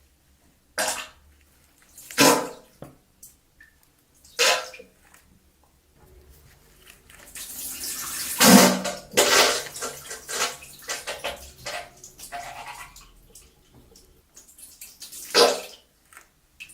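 Diarrhea sound effect: wet, spluttering bursts. A few short separate splutters come first, then a longer run of rapid sputtering from about seven to thirteen seconds in, and one more burst near the end.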